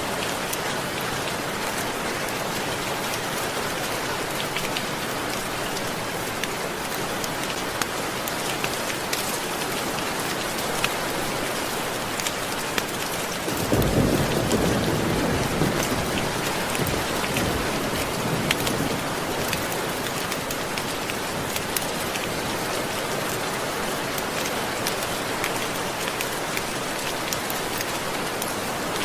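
Steady rainfall with scattered sharp ticks, and a rumble of thunder that breaks in suddenly about halfway and fades over five seconds or so.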